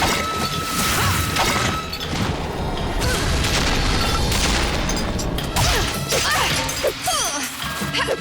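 Cartoon action soundtrack: background music laid over repeated crash and impact sound effects.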